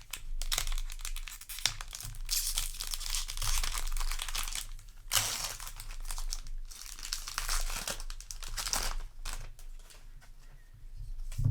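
Plastic booster pack wrapper crinkling and tearing as it is handled and torn open, in several bursts, with the loudest bursts near the middle.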